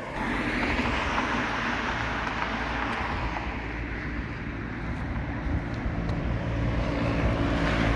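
A motor vehicle engine running steadily under a continuous wash of road noise.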